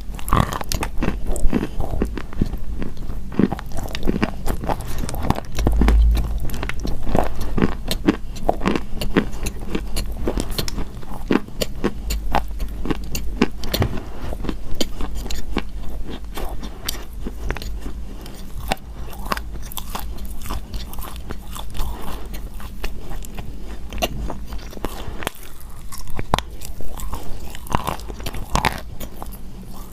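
Chalk being bitten and chewed: many small crunches in quick, irregular succession.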